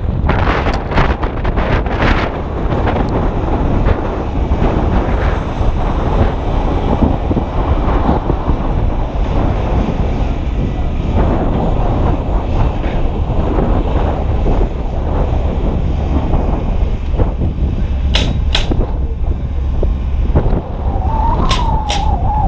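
Strong wind buffeting a GoPro Hero 2's microphone: a loud, steady, rumbling roar. There are a few sharp clicks near the start and a handful more near the end.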